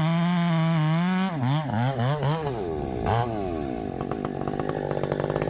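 Husqvarna 564XP chainsaw with a 32-inch bar running at full throttle on a steady high note. About a second in, the pitch starts swinging up and down for around two seconds, then the saw settles to a lower, slower running speed.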